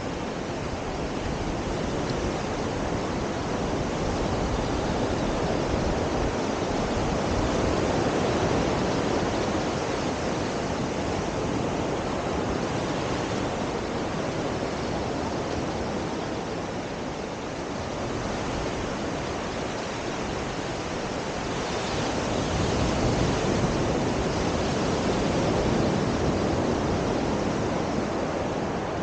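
Surf washing onto a sandy beach: a steady rush of breaking waves that slowly swells and eases, with some wind on the microphone.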